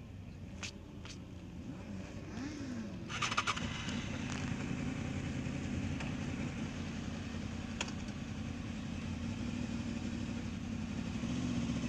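Motorcycle engine running, slowly getting louder, with a brief rattle of clicks about three seconds in.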